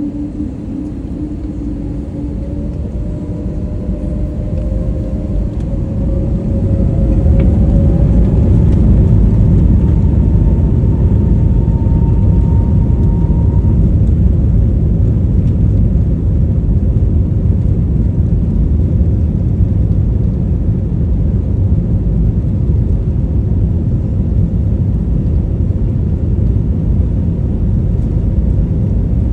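Jet engines of an Airbus neo airliner powering up for takeoff: a rising whine over a deep rumble that grows louder for about the first eight seconds, then holds steady at full takeoff thrust.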